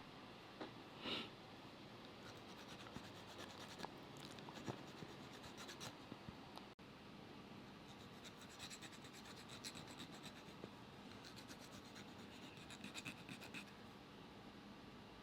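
Faint rasping strokes of a hand nail file on a dog's nails, coming in short runs, with a brief louder sound about a second in.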